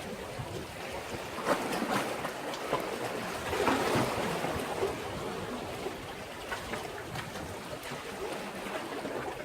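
Sea waves washing and splashing against a breakwater, with a louder surge of water about four seconds in.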